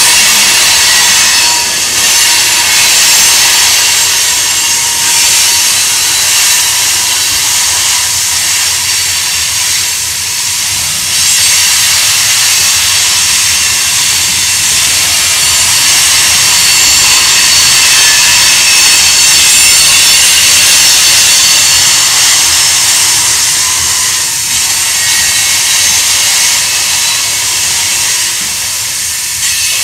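Freight train tank cars and covered hoppers rolling past on a curve: steel wheels squealing and hissing against the rail with a steady high-pitched squeal, over a low rolling rumble.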